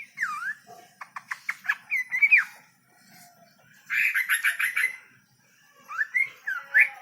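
A songbird singing: phrases of clear, swooping whistled notes, with a quick run of short notes about a second in, a fast chattering burst about four seconds in, and more swooping whistles near the end.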